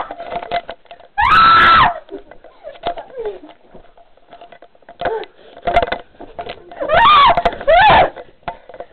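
A person screaming in high-pitched, clipped shrieks: one long scream about a second in, then a few shorter cries, and two more screams near the end.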